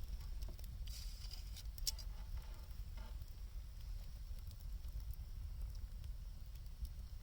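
Wood fire burning, with scattered faint crackles and small pops over a steady low rumble.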